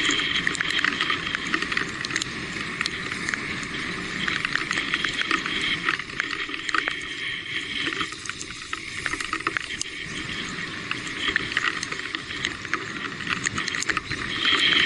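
Electric mountain bike being ridden over a wet dirt trail, with many small clicks and rattles and a high steady tone that comes and goes.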